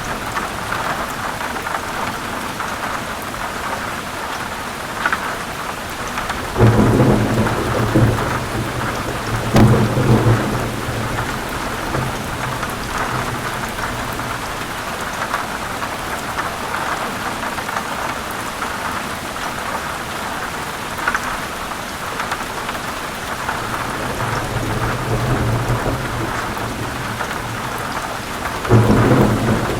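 Heavy rain falling steadily, with low rolls of thunder about six and a half seconds in, again around ten seconds, and near the end.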